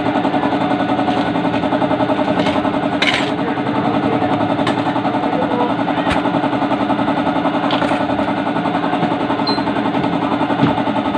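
Small motorcycle engine idling steadily with a fast, even pulse, with a few sharp metallic clicks over it.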